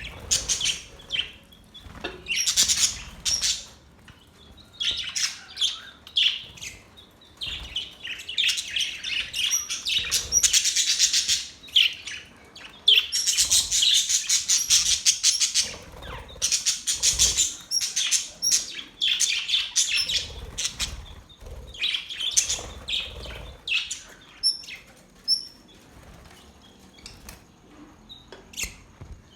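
Budgerigars chirping and chattering in quick high bursts, densest in the middle, thinning to a few short chirps near the end.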